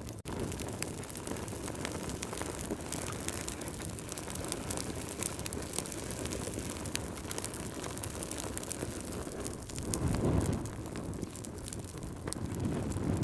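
Wood fire crackling and hissing, with constant small sharp crackles and pops, and a low rumbling swell about ten seconds in and again near the end. The sound cuts out for a split second just after the start.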